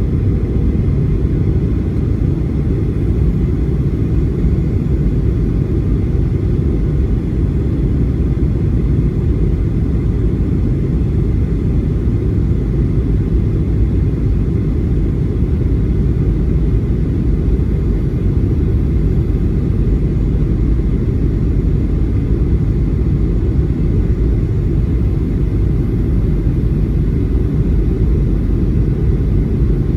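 Cabin noise of a Boeing 737-800 airliner: a loud, steady low rumble of engines and airflow that holds without change.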